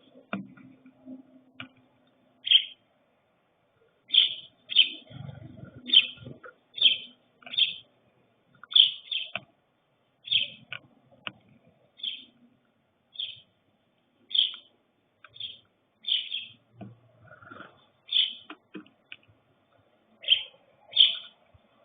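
A songbird calling in a long series of short, sharp high chirps, roughly one every half-second to a second, with a few soft low thumps or rustles underneath about five seconds in and again near seventeen seconds.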